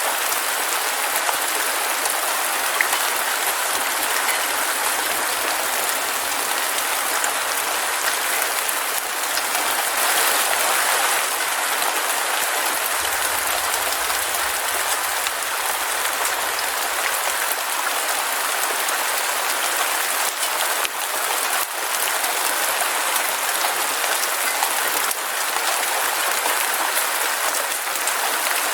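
Heavy rain falling steadily, a dense even hiss with almost no low rumble.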